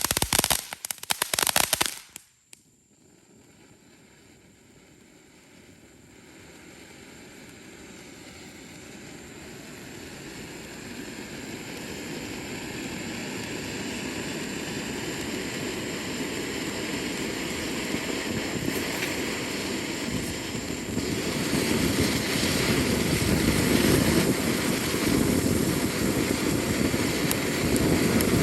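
Firework burning on the ground. It opens with about two seconds of loud, rapid crackling that stops suddenly, then gives a hissing, crackling spray that grows steadily louder.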